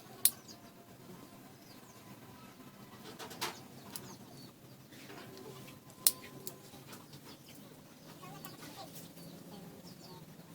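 Birds calling in the background, faint chirps and cooing, broken by three sharp short knocks, the first right at the start, one a few seconds later and one about six seconds in.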